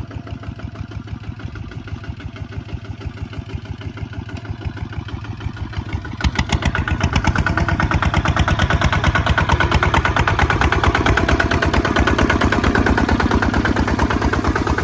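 Kubota ZT 155 DI single-cylinder diesel engine running with a fast, even pulsing beat, growing louder about six seconds in.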